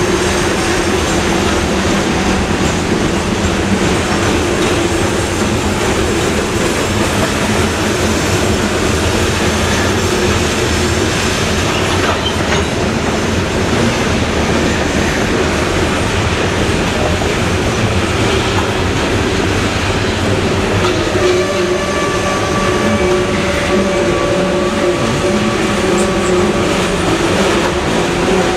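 Norfolk Southern train rolling steadily through the sharp Bennington Curve, wheels running over the rail with a continuous heavy rumble. About two-thirds of the way through, steady higher tones join in, wheels squealing against the rail on the tight curve.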